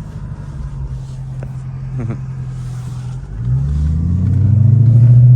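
Car engine running steadily, then about three seconds in revving up, rising in pitch and getting louder as it accelerates.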